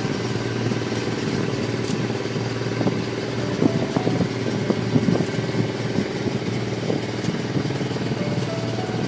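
Small boat engine running steadily under way, with a few light knocks and clatters about halfway through.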